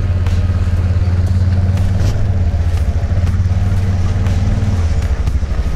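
Mercury four-stroke outboard motor running, a steady low drone that eases off about five seconds in.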